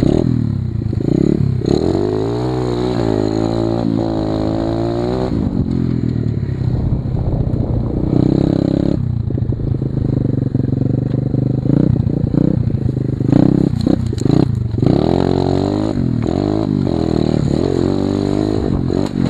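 Small single-cylinder 125cc pit bike engine being revved hard, its pitch climbing as the throttle is held open, then dropping off, with a second long climb near the end.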